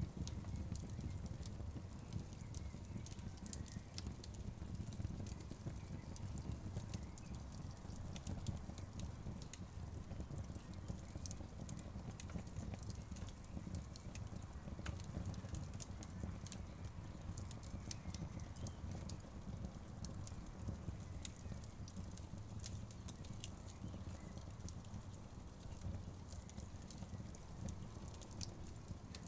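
Wood fire burning in an outdoor fireplace: burning logs crackling with many small, irregular pops over a steady low rumble of flame.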